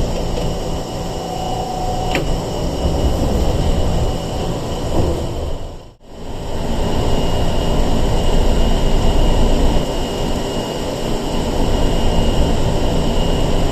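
Cabin running noise of a Sangi Railway 101 series electric train (ex-Seibu 401 series) under way: a steady rumble of wheels and motors. The sound drops out sharply for a moment about six seconds in, then resumes.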